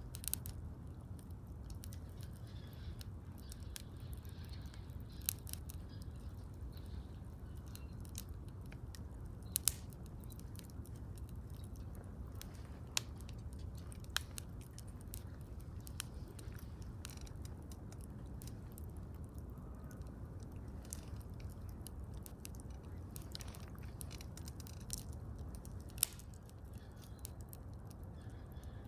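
Wood bonfire crackling: irregular sharp pops and snaps, a few of them louder, over a low steady rumble.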